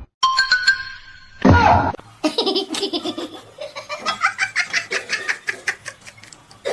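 Laughter in a long run of rapid, repeated bursts. A short, loud vocal sound with falling pitch comes just before it, about one and a half seconds in.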